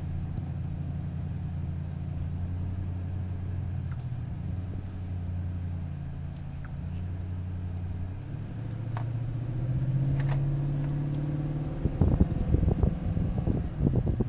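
A vehicle's engine and road noise heard from inside the cab while driving, a steady low hum. About eight seconds in the engine note rises as it speeds up, and from about twelve seconds an uneven, gusty rumble joins in.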